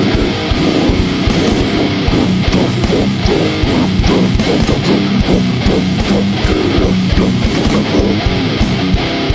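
Band music: electric guitar riffing over a fast, dense beat.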